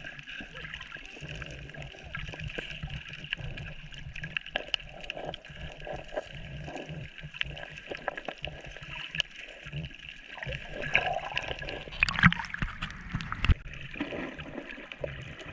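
Sea water gurgling and sloshing around the camera in shallow water, with many small scattered clicks. About twelve seconds in comes a louder stretch of splashing lasting a second or so.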